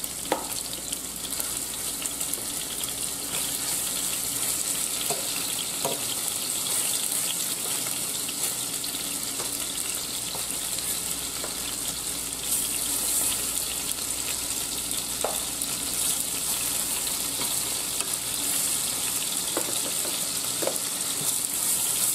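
Raw chicken pieces frying in hot oil and butter in a skillet: a steady sizzle. A few light clicks of metal tongs come through as the pieces are laid in to brown.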